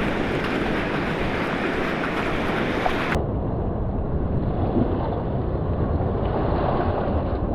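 Surf breaking on a beach with wind buffeting the microphone, a steady rush with a heavy low rumble. About three seconds in the sound abruptly turns duller, losing its high hiss.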